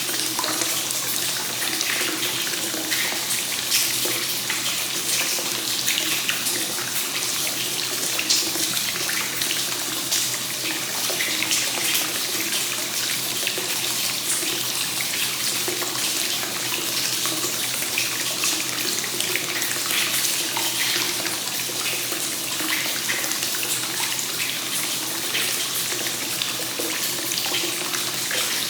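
Hot spring source water pouring steadily into a bath, a constant splashing flow.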